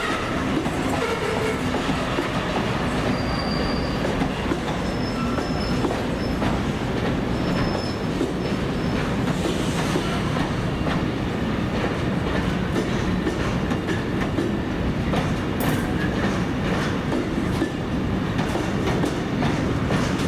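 A train running past, its wheels clattering over rail joints in a steady stream of clicks, with a few short, faint high wheel squeals in the first half.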